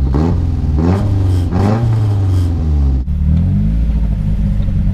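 Nissan 240sx's swapped SR20 four-cylinder engine, heard from inside the car, revving up and down several times. There is a sudden break about three seconds in, after which it runs more steadily.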